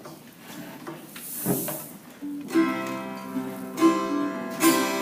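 Strummed chords on an acoustic stringed instrument start about two seconds in, the introduction to a song, with a strong strum roughly every second. Before that there is faint room noise and a short rustle.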